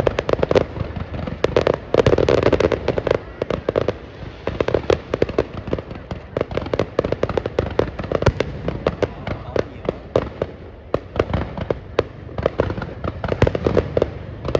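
Fireworks display: a dense, continuous run of bangs and crackles, several a second, with louder clusters about two seconds in and near the end.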